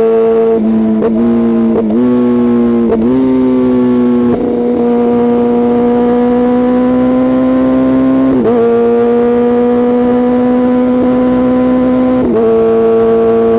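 Kawasaki ZX-6R's inline-four engine and exhaust running at high revs with a steady, loud drone. The note steps abruptly in pitch several times, with brief dips in loudness, and climbs slowly between the steps.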